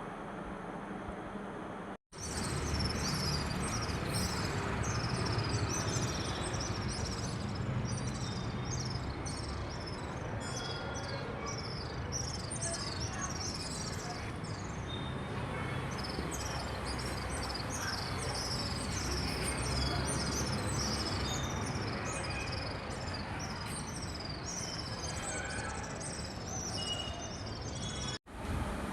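A dense chorus of birds chirping: many short, quick, high, downward-sweeping calls, over a steady low rumble.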